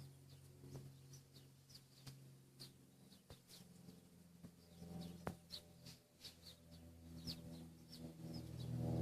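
Small wild birds chirping in short, high notes, several a second, with a few faint sharp ticks among them. Under them runs a low steady hum that grows louder near the end.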